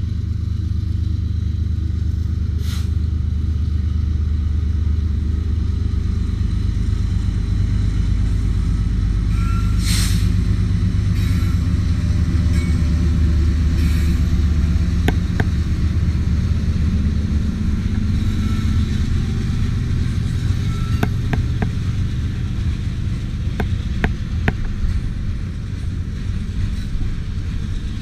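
Freight train passing, with the steady low rumble of its diesel locomotives. Sharp clicks come through now and then in the second half.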